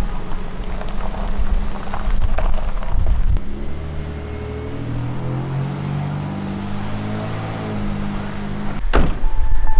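A vehicle running, with a steady low rumble and an engine drone that shifts in pitch through the middle. One sharp sudden sound comes near the end.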